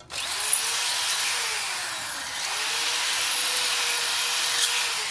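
Electric power drill starting abruptly and running steadily, its motor pitch dipping slightly under load and recovering, working on the steel plates of a great helm.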